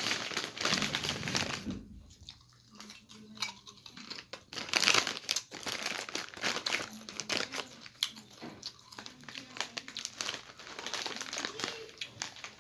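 Foil snack bag of Lay's chips crinkling as it is handled, with irregular crackles that are loudest at the start and about five seconds in.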